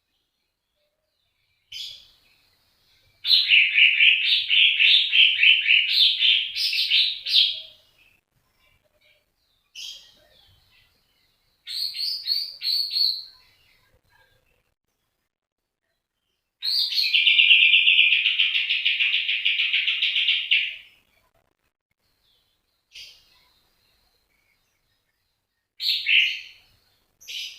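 A songbird singing in separate bursts: a long rapid trill of about five seconds, two short phrases, then another long, even trill of about four seconds, with a few short calls near the end.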